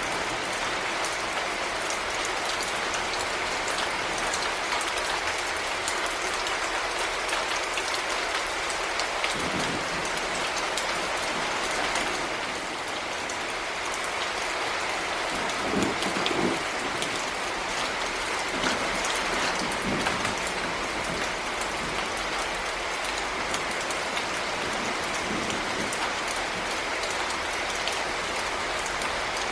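Heavy rain falling steadily, a dense hiss of drops with fine ticks of individual drops throughout. A few dull thuds come through about ten seconds in and again around the middle.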